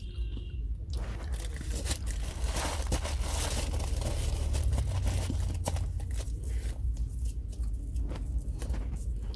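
Snow crunching in a dense, irregular run of crunches, with no pause.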